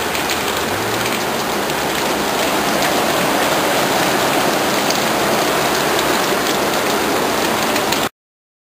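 Heavy downpour of rain falling steadily and hard, drops hitting the ground and surfaces; it cuts off suddenly near the end.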